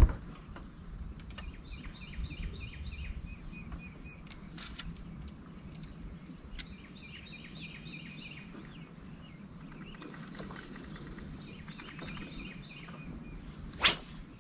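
A songbird singing three phrases, each a quick run of repeated high chirps, over steady low outdoor background noise. One sharp click stands out near the end.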